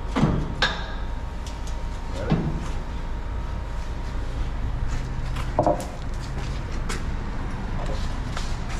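Exhaust-shop work noise: scattered short metal knocks and clicks over a steady low hum.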